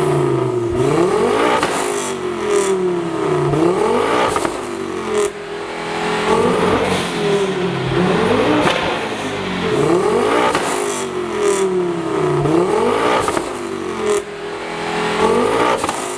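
Ford Focus RS mk2's turbocharged 2.5-litre five-cylinder engine driven hard. Its pitch climbs and drops back again and again, about every one and a half to two seconds, with short sharp sounds at each drop. It fades out at the very end.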